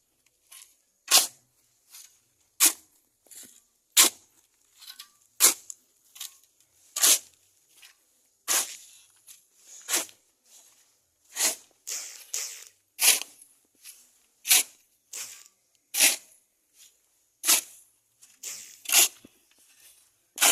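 A steady run of sharp knocks or strikes, one about every second and a half, with fainter ones between them.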